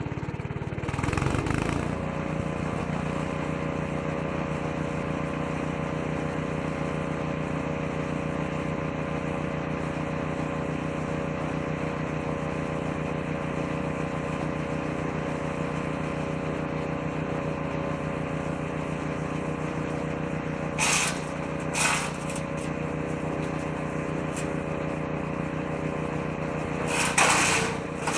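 Petrol engine of a woodchipper-shredder running steadily just after starting, settling to an even speed about two seconds in. Short bursts of shredding noise come twice around two-thirds through and again near the end as material is fed to the shredder drum.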